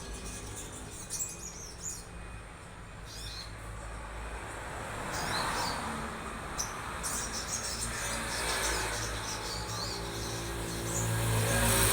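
Songbirds chirping in short high calls, repeated at intervals, over a steady low rumble of traffic that swells about halfway through and again near the end.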